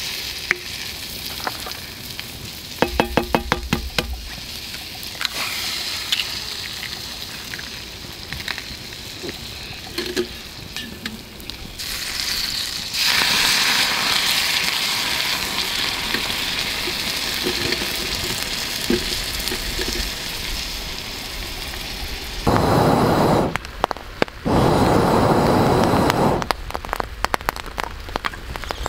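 Sausages and eggs sizzling in a frying pan over a campfire. A quick run of ringing clicks comes about three seconds in. The sizzle grows louder and brighter about halfway through, and two loud rushing bursts come near the end.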